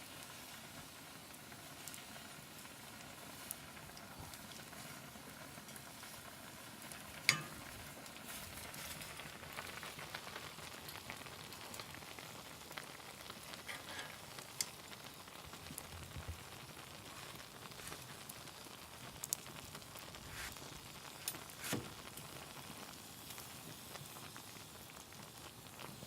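Wood fire crackling and hissing, with scattered small pops and one sharper knock about seven seconds in.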